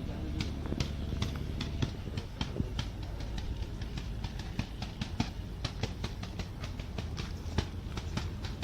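A steady low engine hum, typical of a houseboat under way, with many irregular sharp clicks over it.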